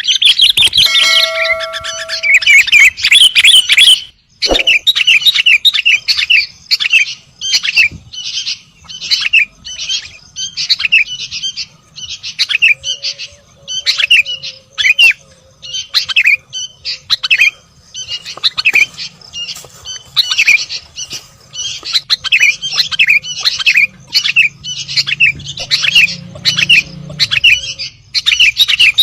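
Sooty-headed bulbul (kutilang) calling: short, quick chirping notes repeated several times a second, with a brief pause about four seconds in.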